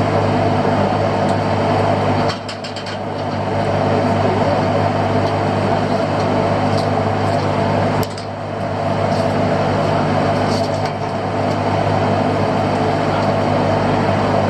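Fishing boat's engine running steadily, heard from on board, with a low, even hum. The level drops suddenly twice, about two seconds in and about eight seconds in, then comes back up.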